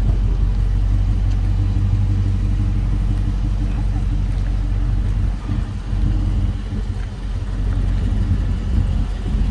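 Dodge Charger Scat Pack's 6.4-litre 392 Hemi V8 idling steadily, a low even engine note that dips slightly about halfway through.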